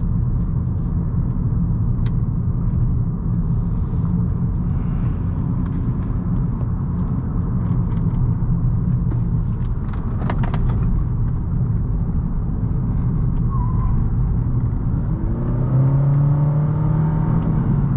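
2018 Honda Accord 1.5T's turbocharged four-cylinder engine pulling steadily with road and tyre noise. About fifteen seconds in, the engine note rises as the car accelerates.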